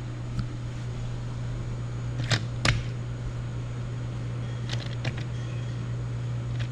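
A few sharp plastic clicks and knocks, two close together a little past two seconds in and two more near five seconds, as battery-powered TrackMaster toy engines are handled and set on the plastic race track, over a steady low hum.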